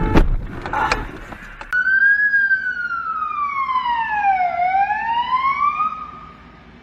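A loud bang right at the start. About two seconds in, an emergency vehicle siren starts abruptly in a slow wail: one long fall and rise in pitch that fades near the end.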